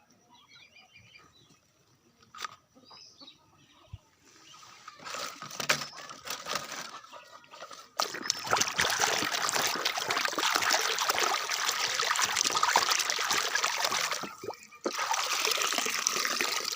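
Water pouring and splashing over a muddy toy truck as it is washed. It starts softly about four seconds in, runs steadily from about eight seconds, and stops briefly near the end. Faint chirps come before the water starts.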